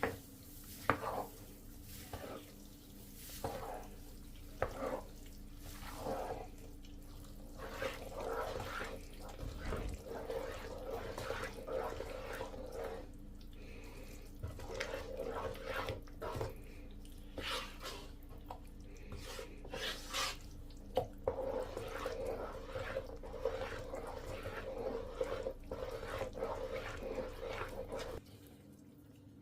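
Kitchen tap running into a sink, with short knocks and clicks of things being handled in the water, the flow getting steadier in the second half and stopping just before the end.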